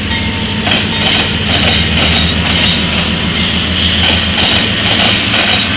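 CSX diesel freight locomotives passing close by: a steady low engine drone with the wheels clacking on the rails.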